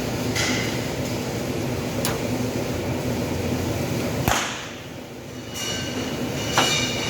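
Electric welding on a steel breaker-panel door: the arc's steady crackling hiss with the welder's hum underneath. A sharp click about four seconds in cuts it off, and after a pause of about a second the welding starts again.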